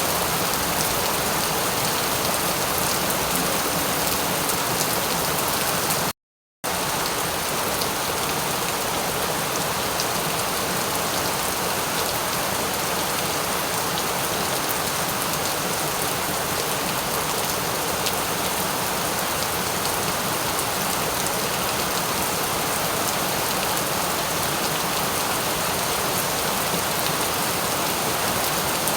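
Steady rain falling on a surface: a dense, even hiss with a fine patter of drops. It cuts out completely for about half a second some six seconds in.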